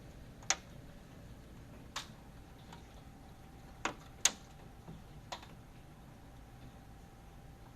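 Scattered sharp ticks, about seven, irregularly spaced over a faint steady hum, the loudest a little past four seconds in.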